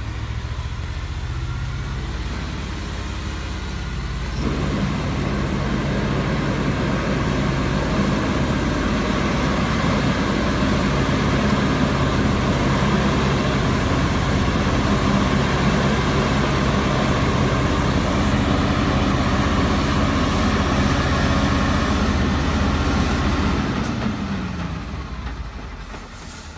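Heavy logging truck's diesel engine working hard. It revs up about four seconds in, runs steadily under heavy load for nearly twenty seconds, then the revs drop away and fade near the end.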